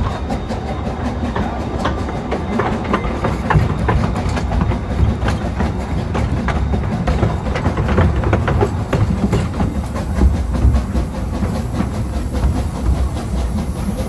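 Narrow-gauge steam train running, heard from the carriage behind the locomotive: a steady rumble of wheels with many quick clicks as they cross rail joints and points. A thin steam hiss rises near the end.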